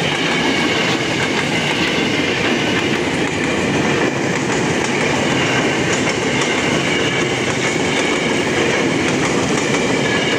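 KRL electric commuter train passing close by at speed: a steady, loud rush of steel wheels running on the rails.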